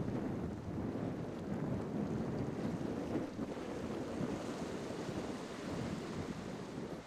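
Wind buffeting the microphone over the wash of surf and churning water at a rough ocean inlet: a steady, gusty rush with no distinct engine note.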